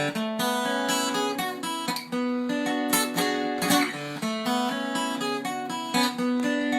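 Taylor 714CE acoustic guitar being played, strummed chords ringing out and changing every second or so. The guitar has just had a neck reset, bridge re-glue, brace repair, fret leveling and soundboard crack repairs.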